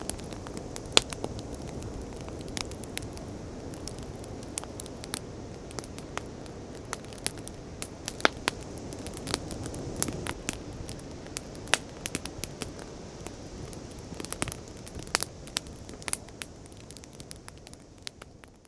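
Wood fire crackling, with many irregular sharp pops and snaps over a steady low rush. It fades out near the end.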